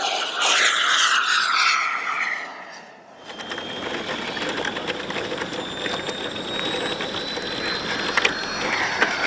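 A loud rushing noise for about the first three seconds, then a model jet turbine running, its thin whine rising slowly as it spools up.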